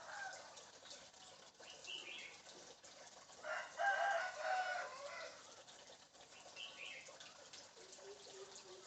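A crowing call like a rooster's, lasting under two seconds and starting about three and a half seconds in, with short high chirps around two seconds in and again near seven seconds.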